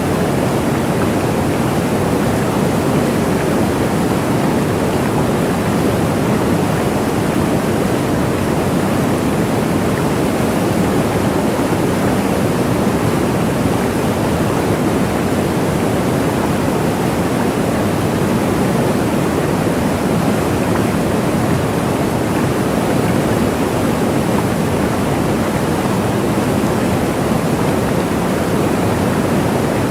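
Waterfall: a steady, unbroken rush of falling water, full and low in pitch.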